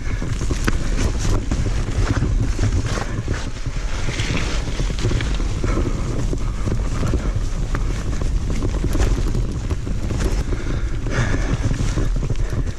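Mountain bike ridden fast over rough trail: wind buffets the bike-mounted camera's microphone while tyres rumble over dirt and rock and the chain and frame rattle with many sharp clicks and knocks.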